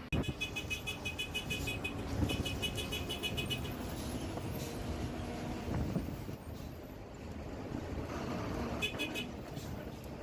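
Road traffic running past, with a steady low rumble. Over it come three short runs of a rapid, evenly pulsed high-pitched beeping.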